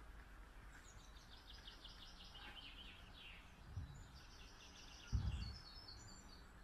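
A small songbird singing a rapid run of high, quick notes that falls in pitch over about three seconds, then a second burst of high notes. Two low thuds about four and five seconds in, the second louder.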